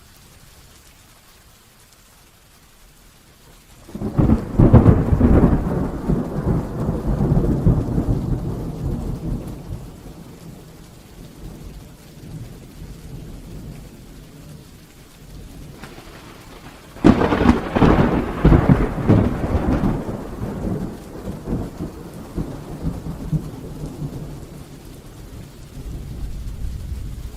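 Heavy rain falling steadily, with two loud claps of thunder, about four seconds in and again about seventeen seconds in, each starting suddenly and rumbling away over several seconds.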